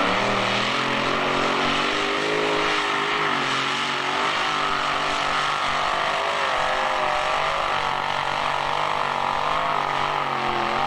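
Competition pulling vehicle's engine running loudly and steadily, its pitch wavering up and down as it works under load on the track.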